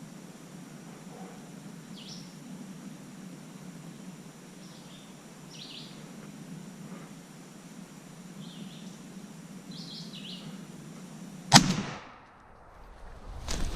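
Small birds chirping now and then over quiet woodland background, then a single loud shotgun shot near the end as a wild turkey is shot.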